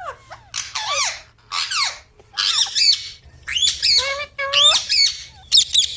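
Pet parrot squawking: about six shrill, harsh calls roughly a second apart, each sweeping sharply in pitch.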